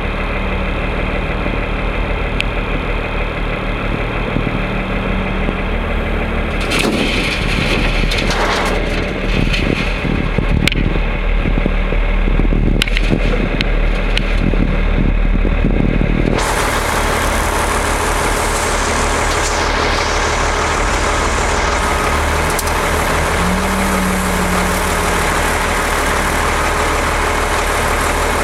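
Heavy diesel engines of a wheel loader and a dump truck running steadily. From about a third of the way in there is a stretch of scattered knocks and clatter. Just past the middle the engine noise turns fuller and hissier and stays that way.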